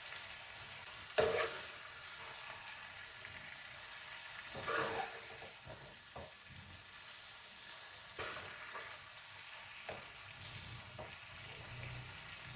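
Masala chicken sizzling in a pan while a spoon stirs it, scraping against the pan several times; the loudest scrape comes about a second in and a longer stretch of stirring about five seconds in.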